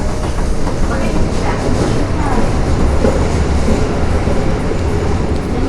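Toei Asakusa Line 5300 series subway train running between stations: a loud, steady rumble of the wheels on the rails and the car's running noise.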